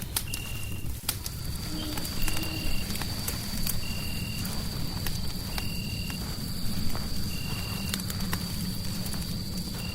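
Fireplace fire crackling, with sharp pops over a steady low rumble. A short high chirp repeats about every second and a half, and a thin high whine holds from about a second in.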